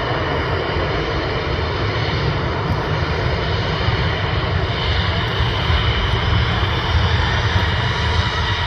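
Airbus A320 jet airliner's engines at takeoff power during departure: a steady, loud noise with a deep rumble and a faint high whine that grows slightly stronger about five seconds in.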